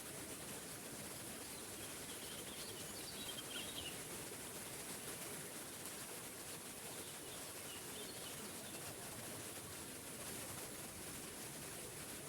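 Small forest waterfall running with a steady rush of water, while birds chirp faintly in the background, once about three seconds in and again around eight seconds in.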